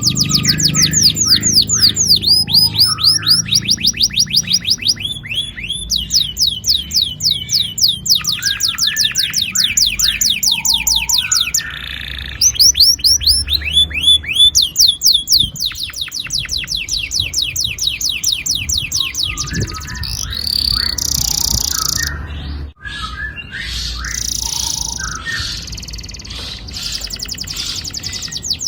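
Domestic canary singing long rolling trills, each a fast run of rapidly repeated high falling notes, broken by short pauses. Toward the end the song turns to a more varied mix of notes.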